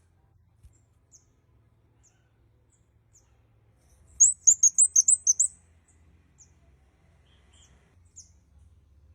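Red-headed kemade (kemade kepala merah) calling: soft, very high single chirps spaced out, then about four seconds in a loud rapid run of about eight high chirps lasting just over a second.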